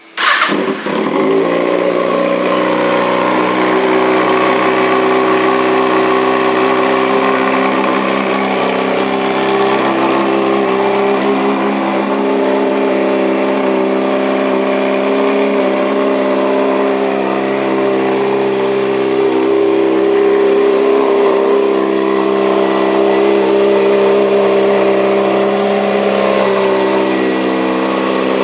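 A 2011 Kawasaki ZX-6R's inline-four engine starts and catches at once with a brief flare, then idles steadily through a short aftermarket exhaust pipe.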